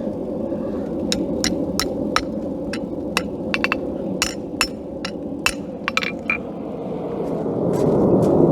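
Hand hammer striking hot steel on an anvil: about fifteen sharp, ringing blows at an uneven pace, stopping a little past the middle. A steady rushing noise runs underneath and grows louder near the end.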